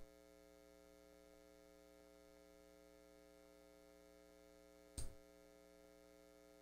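Near silence: a faint steady electrical hum, with one short click about five seconds in.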